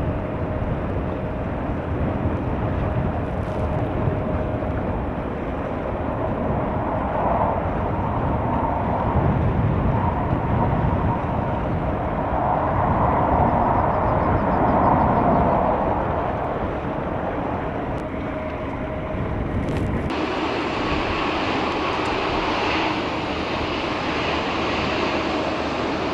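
Jet airliner engines running, a steady loud rush that swells to its loudest a little past the middle. About 20 seconds in, it changes abruptly to a thinner, higher engine sound.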